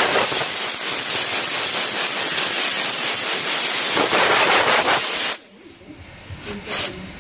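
Compressed air from a pneumatic workshop tool hissing loudly and steadily, cutting off suddenly about five seconds in; two short hisses follow near the end.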